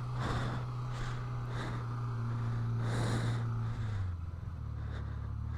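Yamaha XJ600's air-cooled inline-four engine running at low revs, pulling up a steep climb; its note drops lower about four seconds in. Three hard breaths from the rider sound over it.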